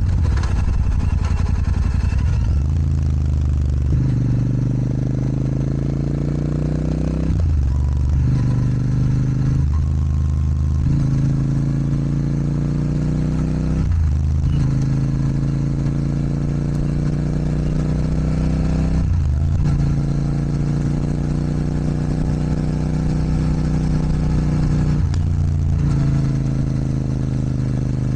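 Royal Enfield Super Meteor 650's 648 cc parallel-twin engine, fitted with a Rhino Racing sports exhaust and a DNA performance air filter, pulling through the gears under way. The engine note rises steadily between shifts, drops briefly at each gear change and then climbs again, several times over.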